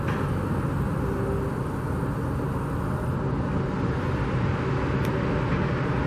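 Steady low rumble of road traffic and site machinery.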